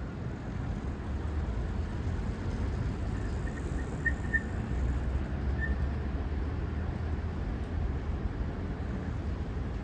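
Steady low rumble of city traffic, with a few brief faint chirps about four to six seconds in.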